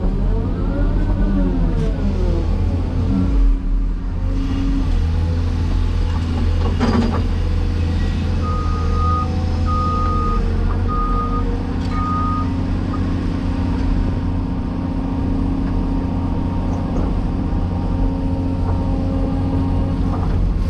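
Cat 336E excavator's diesel engine running steadily, its pitch rising and then falling in the first few seconds as it takes hydraulic load. About halfway through, a backup alarm gives four short beeps, with a single knock just before.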